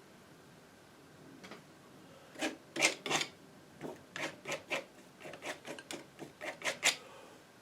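Painting knife scraping and dragging oil paint in a series of short strokes, about fifteen of them, starting about a second and a half in.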